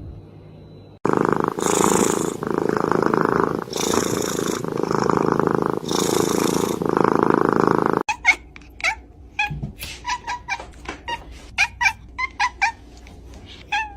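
A domestic cat purring loudly close to the microphone, the purr swelling and easing about once a second with its breathing. After a sudden cut, a run of short clicks and brief chirp-like sounds.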